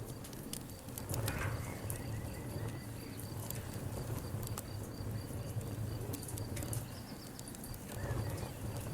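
Campfire of burning wood crackling and popping in irregular sharp snaps over a steady low rumble. A high, rapidly repeating insect chirp runs in the background.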